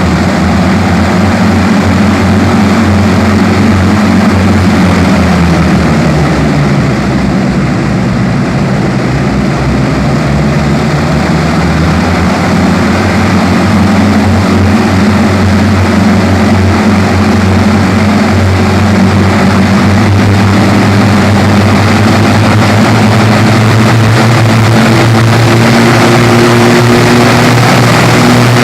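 An Avro Shackleton MK3's four Rolls-Royce Griffon 57/58 V12 piston engines running up below maximum power, a loud, steady propeller drone. The engine note sags a few seconds in, climbs back and then holds steady, rising slightly near the end.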